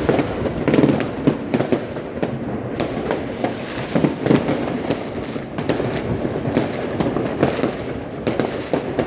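Fireworks and firecrackers going off continuously, many overlapping bangs and crackles with no pause.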